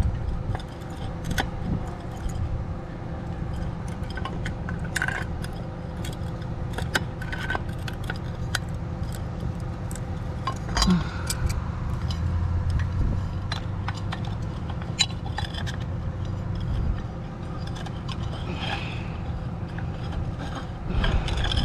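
Small metallic clinks, taps and scrapes of a hand tool working at a chandelier's metal fittings, coming irregularly, over a steady low hum.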